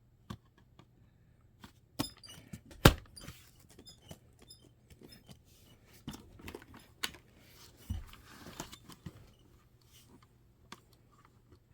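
Scattered clicks, taps and small knocks of laptop RAM sticks being handled and pushed into their slots, the loudest a sharp knock about three seconds in.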